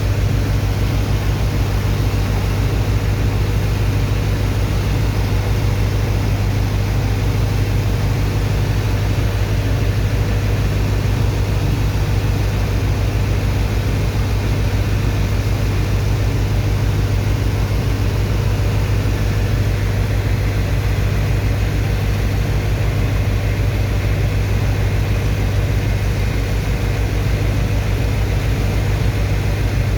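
Heavy engine of a sand dredger's pump running steadily at constant speed: an unchanging low drone with an even hiss over it.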